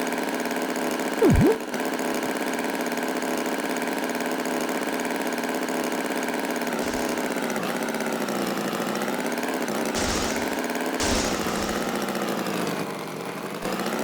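A steady engine running, with a brief sliding tone about a second in and two short bursts of hiss near the end.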